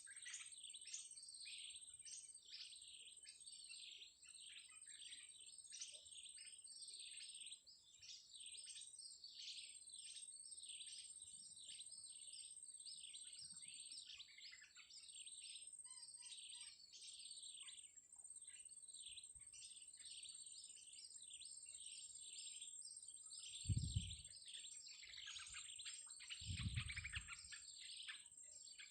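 Small birds chirping rapidly and continuously in high, thin notes, over a steady high-pitched whine. Two dull low thumps come near the end.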